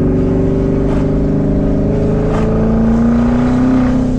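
Twin-turbo Mustang engine pulling under throttle with the turbo dump pipes open, its pitch climbing slowly as it accelerates. There is a brief whoosh about two and a half seconds in.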